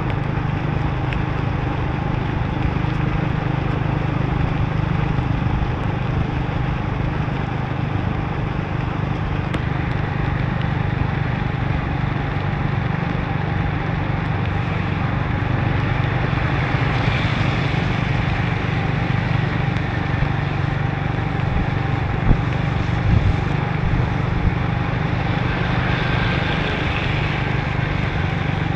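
Motorbike engine running at a steady pace, heard from the bike, under a constant hiss of tyres on the wet road and rain. A few short knocks come about three-quarters of the way through.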